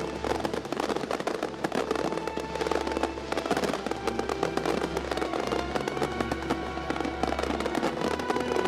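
Fireworks crackling and popping in a rapid, continuous patter, over background music with sustained notes.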